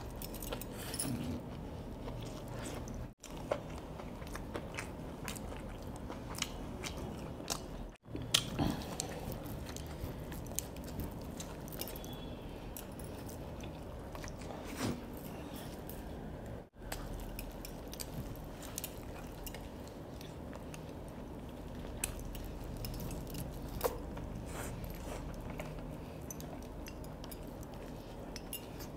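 Biting and chewing of crispy fried chicken leg pieces, with scattered crunches of the coating.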